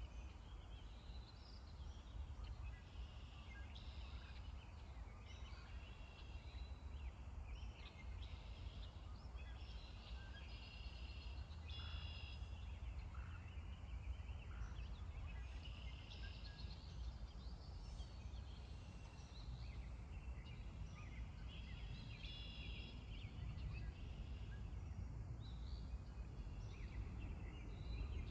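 Many birds calling and chattering in short, high calls throughout, over a low steady rumble.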